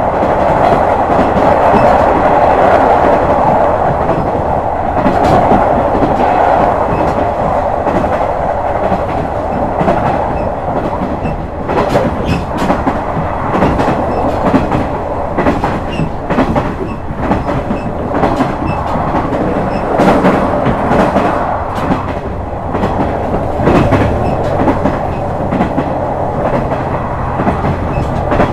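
KiHa 126 series diesel railcar running along the line, heard from inside the car: a steady rumble of running noise with short clicks of the wheels over rail joints, and a low steady hum that comes in near the end.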